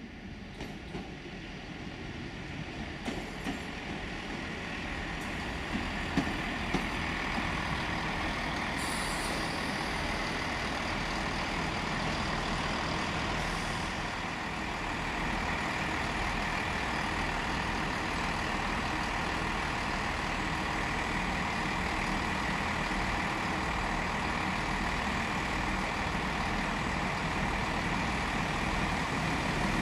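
Diesel multiple-unit train running through the station. Engine and wheel-on-rail noise builds over the first several seconds, with a few light ticks, then holds steady.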